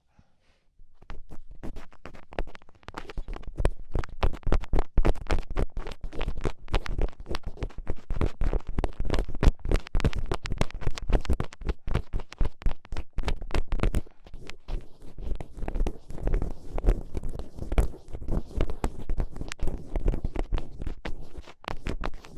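Thin ear pick scraping and scratching close up in ASMR ear cleaning: dense, rapid, irregular scratches and crackles that start about a second in.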